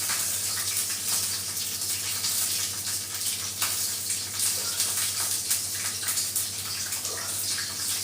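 A steady, even hiss, strongest in the highs, over a low steady hum, with a few faint ticks.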